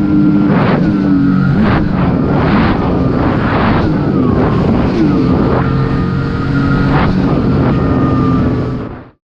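Sea-Doo personal watercraft engine running under way, its pitch shifting slightly, with splashing slaps about once a second as the hull hits the chop. The sound cuts off suddenly near the end.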